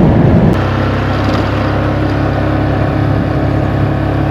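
An engine running steadily with a low, even rumble, starting about half a second in.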